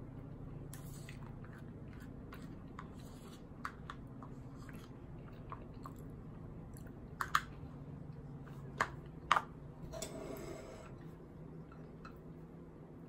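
Close-up eating sounds: chewing, with a few sharp clicks of tableware on the table, the loudest about nine seconds in, over a steady low hum.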